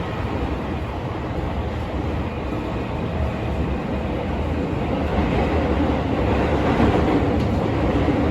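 Tokyo Metro 16000-series subway train running in a tunnel, heard from inside the car: a steady rumble of wheels on rails and a faint motor whine. The rumble grows a little louder in the second half as the train nears the next station.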